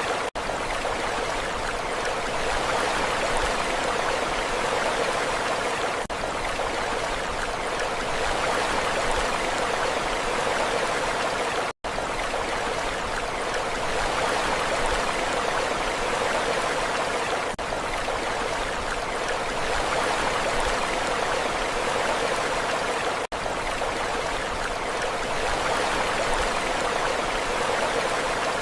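Steady rushing water with no rise and fall of breaking waves. It is a short recording looped about every six seconds, with a brief dropout at each join.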